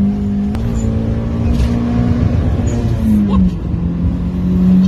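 Turbocharged 1.3-litre four-cylinder engine of a modified Toyota Starlet GT running at a steady pace under way. There is a sharp click about half a second in, and the engine note dips slightly a little past three seconds before settling.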